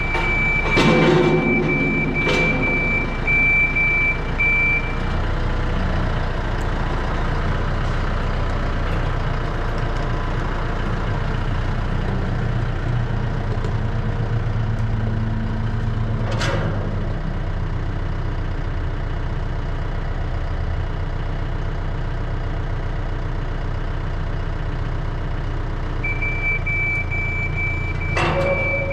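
A vehicle's engine running steadily under load as it moves a trailer. A high reversing alarm sounds for the first few seconds and again near the end. A few sharp metal clanks break in, about a second in, near the middle and near the end.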